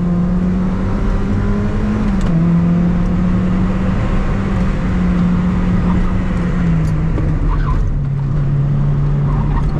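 Mazda MX-5's 1.8-litre VVT four-cylinder engine, on a stock exhaust, running hard on track, heard from inside the car. The engine note holds steady, then drops a step about two seconds in and twice more near the end.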